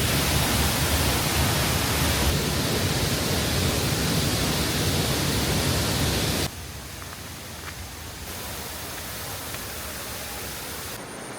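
Waterfall rushing, a steady noise of falling water; about six and a half seconds in it suddenly drops to a quieter rush.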